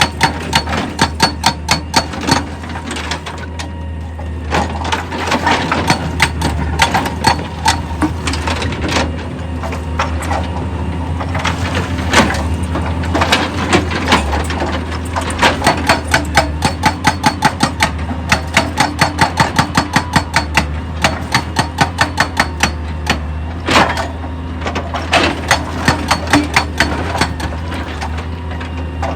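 Rocks knocking and cracking against each other and against steel in a rapid, uneven clatter, several hits a second, over the steady low hum of a heavy machine's engine.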